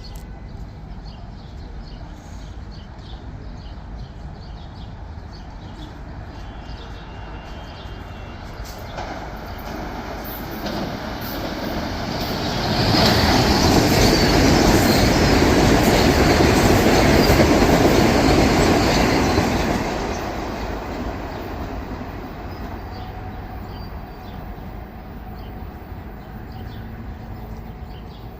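Metro-North electric commuter train passing along the track, its wheels rattling over the rail joints. The noise builds over several seconds, stays loud for about seven seconds, then dies away.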